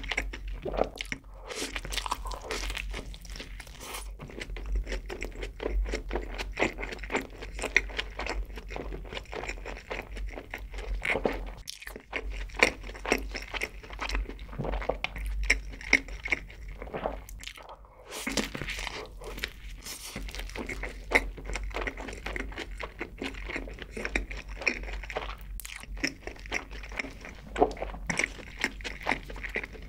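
Close-miked chewing of a burger with shredded lettuce: a dense run of small crunching strokes, with fresh bites taken now and then.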